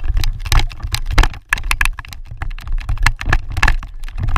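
Lacrosse sticks clacking during play: an irregular run of sharp clicks and knocks over a steady low rumble.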